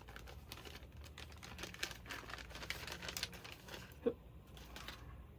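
Plastic crinkling and small irregular clicks as a replacement LCD panel, still in its plastic, is handled, with a single knock about four seconds in.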